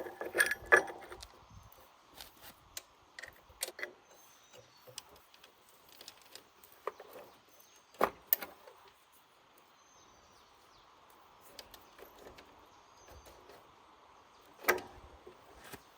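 Scattered clicks and knocks of handled objects, opening with a short metallic clatter with a ringing tone; two louder knocks come about halfway through and near the end.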